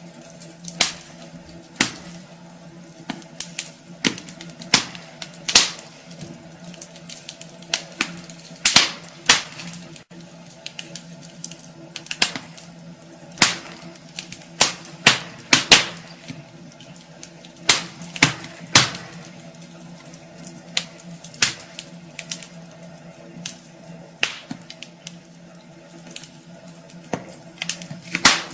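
Wood fire in a fireplace crackling, with irregular sharp pops of burning logs, some louder than others, over a faint steady hum.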